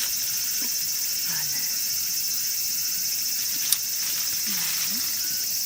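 Steady, high-pitched chorus of insects, with a single sharp click about two-thirds of the way through.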